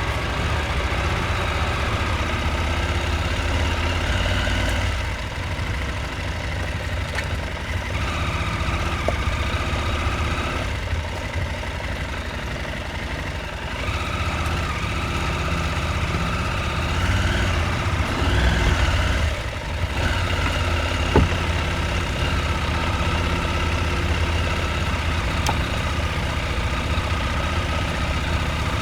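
Husqvarna Norden 901's parallel-twin engine running steadily at low revs, picking up a little about two-thirds of the way through and briefly dropping off. A single sharp knock comes shortly after.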